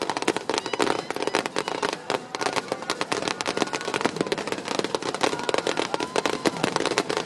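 Aerial fireworks shells bursting in a rapid, unbroken barrage, many bangs and crackles a second overlapping with no pause.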